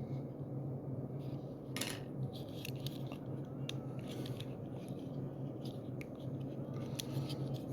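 Scattered small clicks and taps from handling a diecast toy car while working its loose plastic rear window back into place, over a steady low hum.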